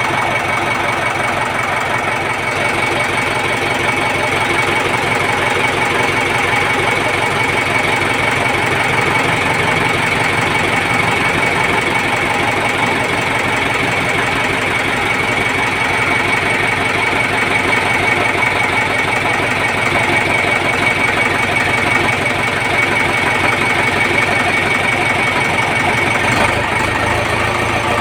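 Engine running steadily with a rapid, even clattering beat and a steady high whine above it.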